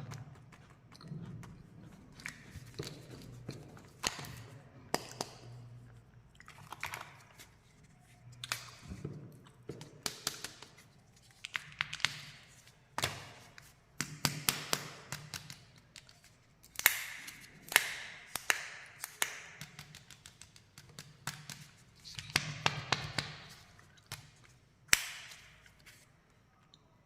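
Close-miked candy ASMR: many sharp clicks, crinkles and crunches from candy and its wrappers being handled, opened or bitten, coming in irregular clusters.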